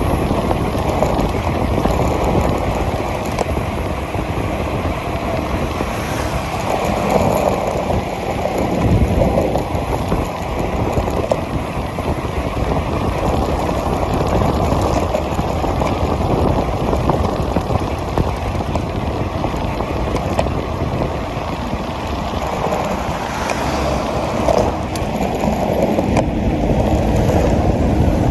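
Steady wind rush on the microphone with tyre and road noise from a bicycle riding fast downhill, swelling a little now and then.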